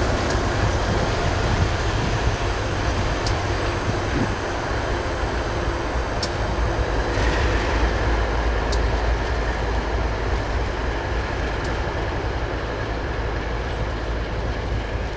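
A train rolling past: a steady rumble and rattle of wheels on the rails, with a few sharp clicks every few seconds.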